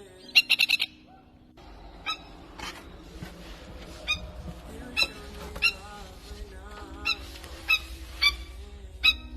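Plover giving sharp, loud alarm calls: a quick run of about five notes about half a second in, then single calls every half second to a second and a half. It is the distress of an adult bird whose chick is trapped in a drain.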